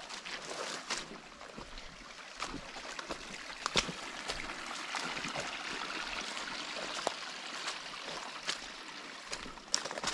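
Running water of a small stream, a steady rushing that grows louder through the middle and fades again, with a few footsteps on the trail near the start and end.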